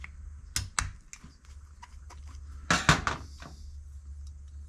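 Small metal carburetor parts and hand tools clinking and clattering on a workbench: two light clicks about half a second in, then a louder clatter around three seconds in.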